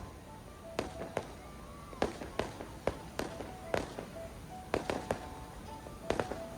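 Fireworks going off in a display: about a dozen sharp bangs at irregular intervals, some in quick pairs, with short steady tones heard between them.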